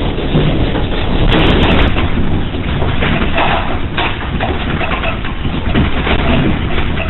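A building shaking in an earthquake: a steady low rumble with dense rattling and clattering, swelling louder about a second in and again around three to four seconds.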